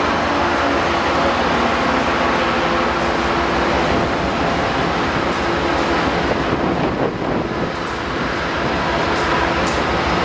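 Diesel locomotives running in multiple as the train pulls past, with passenger coaches rolling by on the rails. A steady rumble, a few sharp ticks, and a brief drop in level about seven seconds in.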